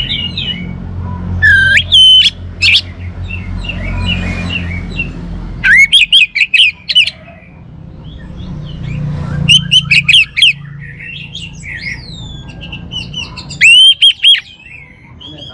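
Orange-headed thrush (anis merah) singing loud bursts of rapid, sweeping whistled notes, about four phrases with softer notes between them, over a low rumble.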